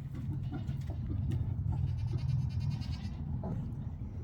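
A farm animal's high-pitched bleat-like cry, about a second long near the middle, over a steady low hum and a few small clicks.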